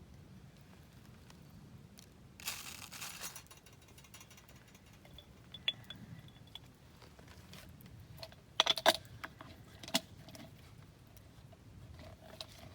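Coffee beans rattling briefly in a hand-held mesh roaster shaken over a campfire, about two and a half seconds in, followed by a few sharp pops and crackles, loudest in a cluster about nine seconds in.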